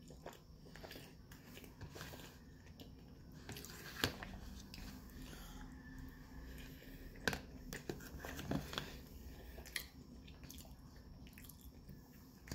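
Close-up chewing and mouth sounds of a person eating rice, beans and corn, with a few sharp clicks from the metal fork, the loudest about four and seven seconds in. A faint low hum runs underneath.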